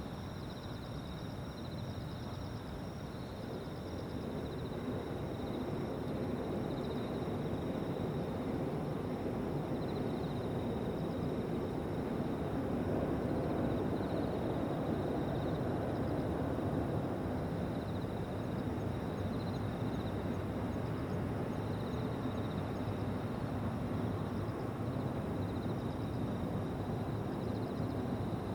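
A jet airliner's rumble swells over the first dozen seconds and then holds, under the steady, high, pulsing chirping of insects.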